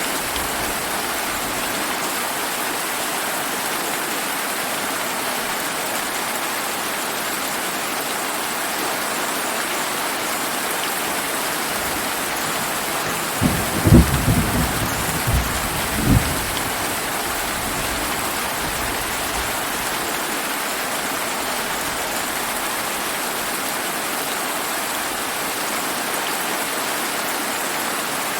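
Steady rain falling, with a short roll of thunder about halfway through: a few low rumbling peaks over some three seconds that stand out above the rain.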